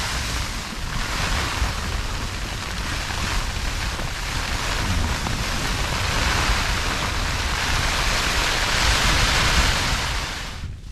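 Storm wind in a snowstorm gusting against the tent: a steady rushing noise that grows louder in the second half and stops abruptly just before the end.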